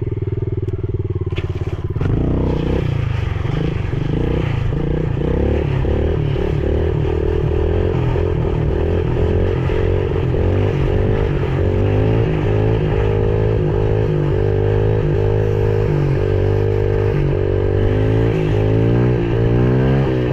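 Yamaha TTR110E pit bike's single-cylinder four-stroke engine idling, then revving up about two seconds in. It then runs on at speed, its pitch rising and dropping again and again as the throttle opens and closes.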